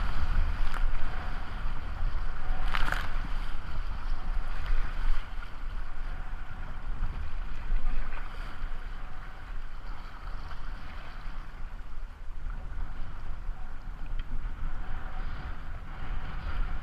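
Wind buffeting the microphone over the steady rush of river water around a kayak, with one sharp short hit about three seconds in.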